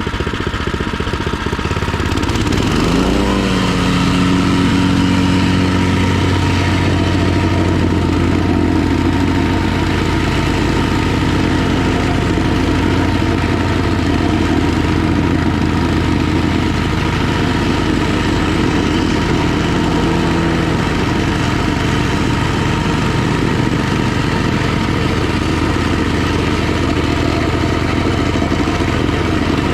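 Small gasoline engine of a Harbor Freight vibratory plate compactor running while it tamps loose slag. The engine revs up about three seconds in, then runs steadily at speed. It is running well.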